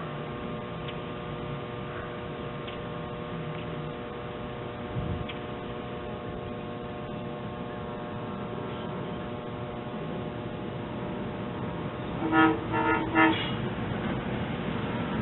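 SEPTA Silverliner electric commuter train sounding its horn: three short blasts about twelve seconds in, over a steady hum and rumble.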